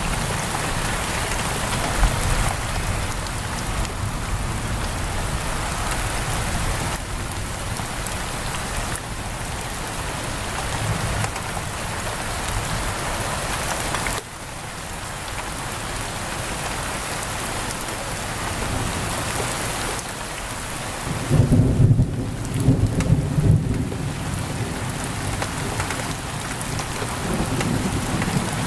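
Heavy rain pouring on a window glass, a steady hiss, with a low rumble of thunder rolling in about three-quarters of the way through.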